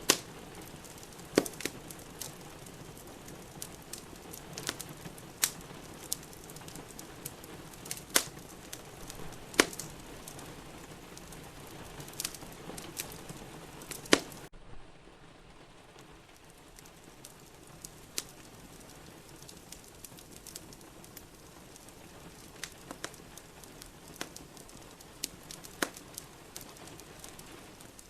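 Wood fire in a fireplace crackling, with sharp irregular pops over a steady hiss of rain. About halfway through the background hiss drops suddenly and becomes quieter, while the crackles carry on more sparsely.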